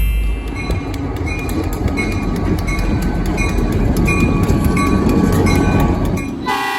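A train rolling past, with steady wheel-and-rail rumble, rapid clicks and brief high squeals from the wheels. Near the end a locomotive air horn starts to blow loudly.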